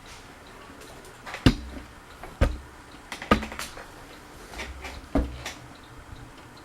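Irregular sharp knocks and clicks, four of them loud and each with a short low thud, like hard objects being handled and set down.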